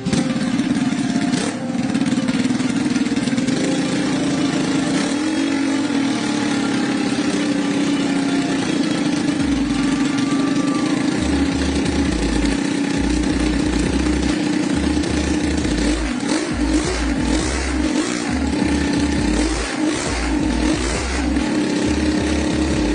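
Homemade three-cylinder engine built from Honda EX5 motorcycle engines, running steadily. The throttle is opened once about five seconds in, and the engine is revved up and down several times in the second half.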